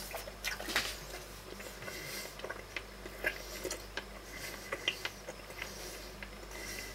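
A person chewing a mouthful of freshly baked savoury cheese scone, with small irregular crunching clicks.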